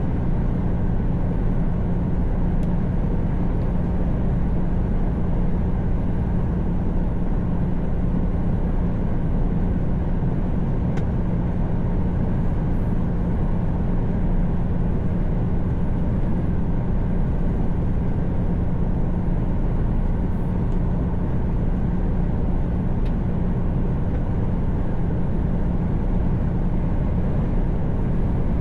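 Steady in-cab drone of a Mercedes-Benz Actros truck cruising on the motorway: an even engine hum over road and tyre noise.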